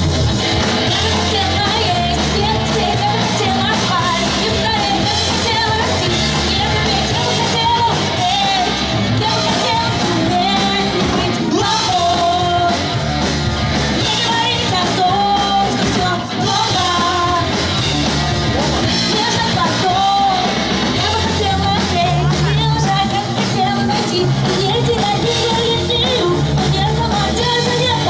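Pop-punk band playing a song live, with a singer; the full band comes in right at the start.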